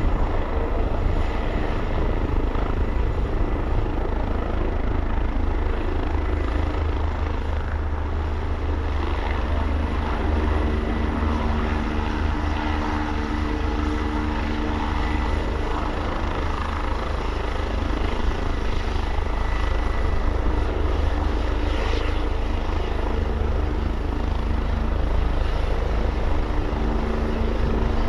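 Helicopter's engine and rotor running steadily at close range, with a pitched hum that grows stronger for several seconds in the middle and again near the end.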